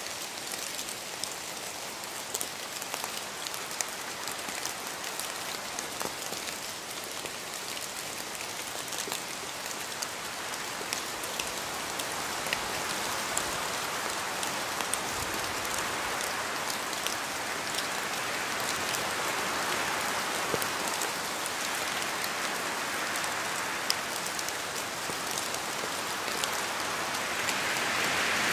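Steady rain falling, with a dense hiss and many small drop ticks on a surface; it swells gradually a little louder through the second half.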